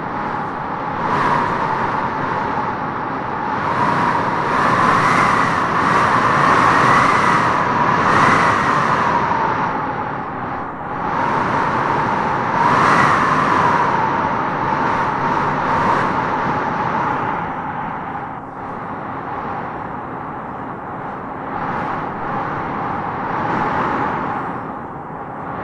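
Wind blowing in gusts: a steady rush with a howling whistle that wavers up and down in pitch, swelling loudest a few seconds in and again about halfway through.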